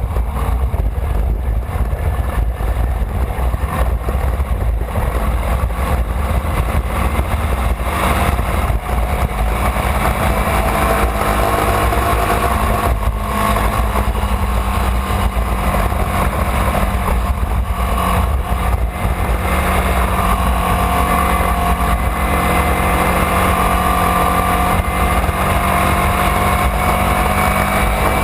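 Formula Vee's air-cooled Volkswagen flat-four engine running continuously under way, heard onboard, its pitch drifting gently up and down over a heavy low rumble.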